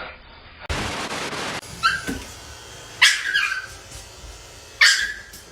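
A dog yelping three times, each yelp a sharp cry falling in pitch, the last two the loudest. A short rush of noise comes just before them.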